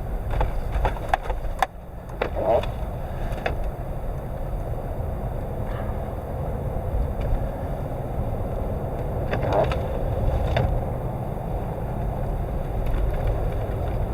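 A car being driven, heard from inside the cabin: a steady low rumble of engine and tyres, with a few short knocks and clicks in the first few seconds and again about nine to ten seconds in.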